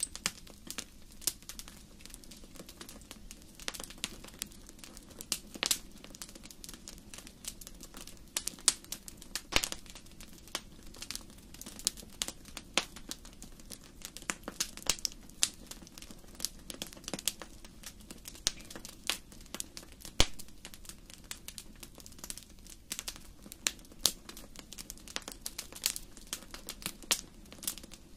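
Wood fire in a fireplace crackling: irregular sharp pops and snaps, several a second and of varying loudness, over a faint steady low background.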